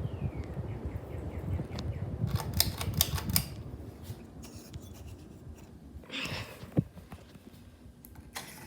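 Hampton Bay Raleigh III ceiling fan running with a low rumble, fading after about four seconds. A quick run of sharp clicks comes about two and a half to three and a half seconds in, and a single sharp click near seven seconds.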